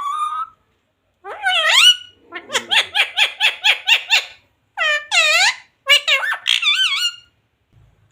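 A pet parrot calling and chattering in a high, squeaky voice: several separate bursts of rising, bending calls and a quick run of short notes, typical of a parrot mimicking speech.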